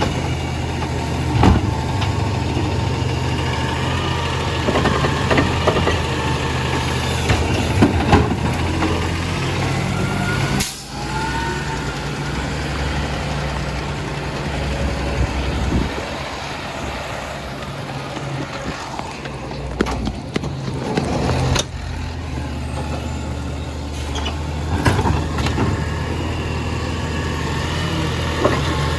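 Compost collection truck's engine running steadily, its note changing about a third of the way through, with several sharp knocks and clanks.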